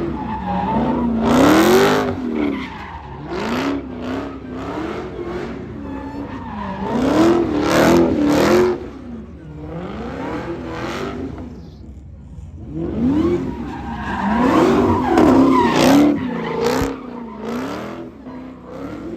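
Car engine revving up and down again and again, with loud bursts of tire squeal and skidding noise several times.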